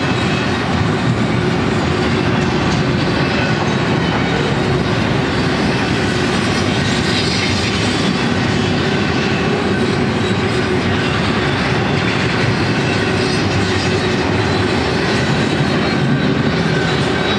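Double-stack intermodal freight train of container well cars rolling past at steady speed: an even, continuous rumble and clatter of steel wheels on the rails, with faint thin wheel squeal.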